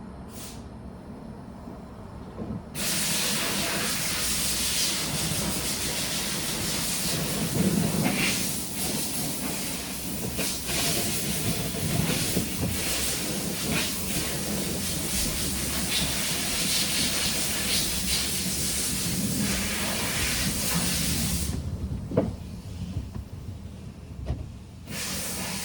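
Loud, steady hiss of a pressurised jet blasting over the engine bay to clear spilled power steering fluid, starting about three seconds in and cutting off abruptly near the end, followed by a sharp knock.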